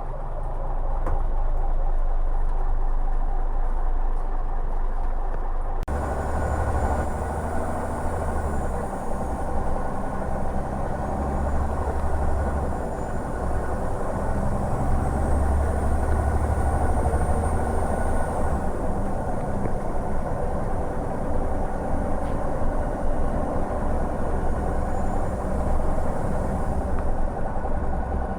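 Volzhanin city bus on a Scania L94UB chassis on the move: a steady diesel engine rumble with road noise. The sound changes abruptly about six seconds in and becomes fuller and deeper.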